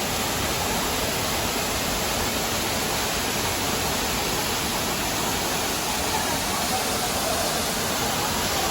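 Steady rush of water from a waterfall on a mountain stream.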